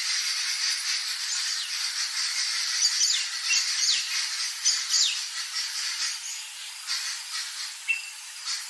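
Steady high insect buzz and chirring with several short bird calls, a few of them quick whistles falling in pitch between about three and five seconds in.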